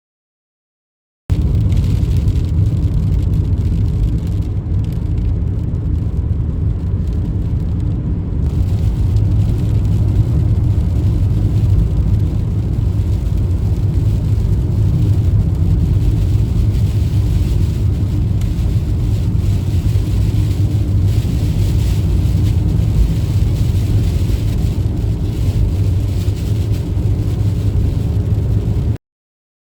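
Steady, loud low rumble of car road and engine noise heard from inside a moving car. It cuts in about a second in and stops abruptly near the end.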